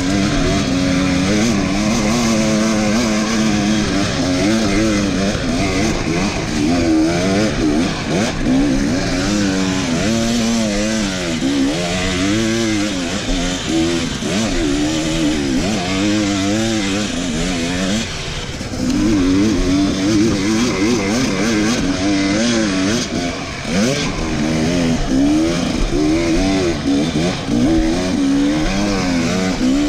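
Enduro dirt bike engine revving hard and rising and falling in pitch again and again as the throttle is worked, with a brief drop in the middle.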